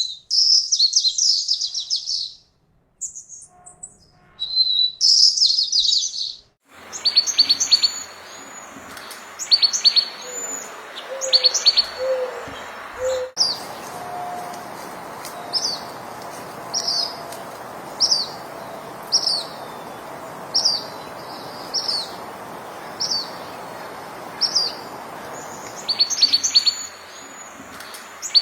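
Birds chirping: rapid high trills for the first six seconds, then a short, high, hooked call repeated about once a second over a steady background hiss.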